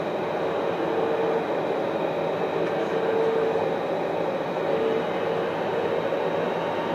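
Alstom Citadis 403 tram running along its line: a steady rolling noise with a mid-pitched hum that fades in and out several times.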